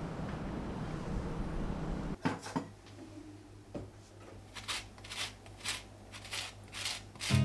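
A steady rumble for about two seconds, then it cuts off suddenly and a series of short rustling, brushing sounds follows, about one every half second to a second.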